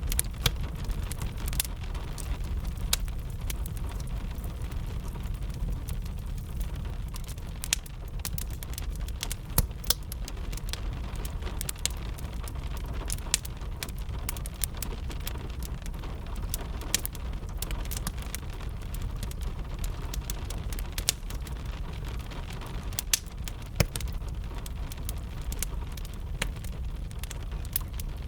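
Steady rain with a low rumble, mixed with a wood fire's frequent, irregular sharp crackles and pops.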